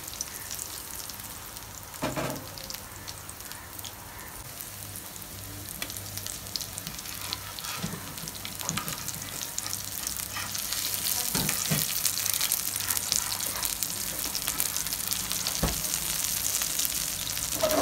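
Rice-flour-coated potato and vegetable patties shallow-frying in hot oil in a pan: a steady sizzle that grows louder about halfway through. A few light knocks of a spatula against the pan come through it.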